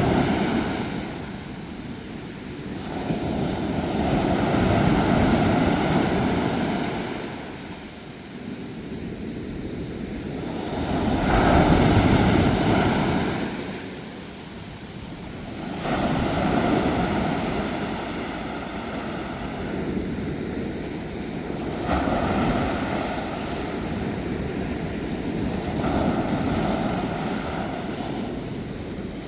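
Sea waves breaking and washing on a shore, surging and falling back every few seconds, the loudest surge about twelve seconds in.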